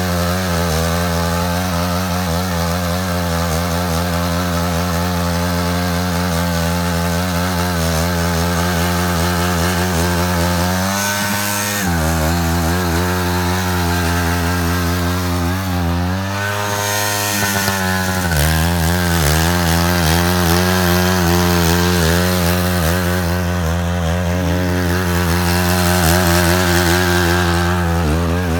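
Small single-cylinder engine of a Matsuda walk-behind power tiller running under load while cutting a ditch. Its speed wavers with the digging and picks up briefly twice, once about eleven seconds in and again past the middle.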